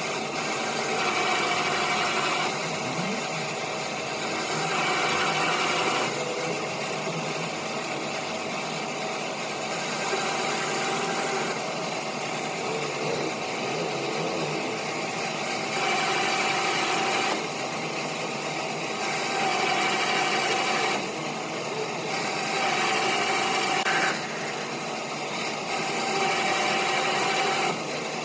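A workshop machine running steadily, with louder spells of a few seconds each, seven or eight times over.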